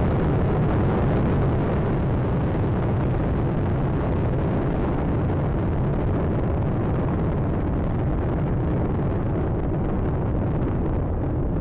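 Space Shuttle Atlantis in powered ascent: a steady, deep rumble from its solid rocket boosters and three main engines.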